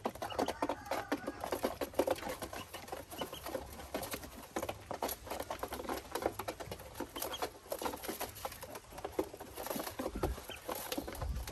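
Ducklings scrabbling and tapping: fast, irregular light clicks and scratching, with a few faint high peeps and a couple of low bumps near the end.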